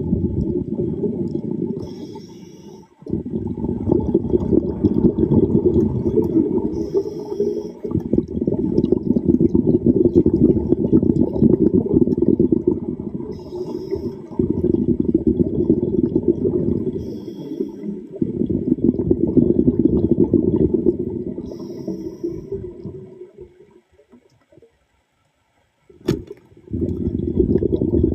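Underwater bubbling from a diver's exhaled breath, coming in long bursts of several seconds, with a short faint hiss between bursts as the diver breathes in.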